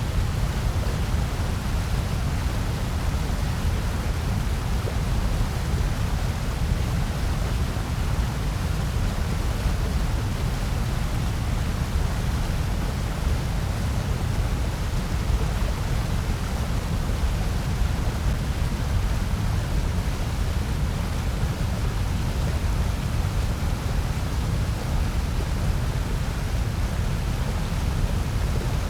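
Steady synthetic noise played as a sleep and focus track: an even, unchanging hiss with a strong deep rumble underneath.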